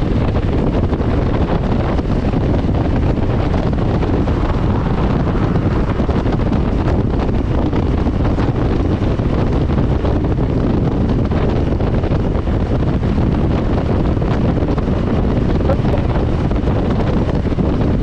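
Wind rushing over the microphone while riding a 2020 Harley-Davidson Low Rider S, with the bike's V-twin running underneath, at a steady level throughout.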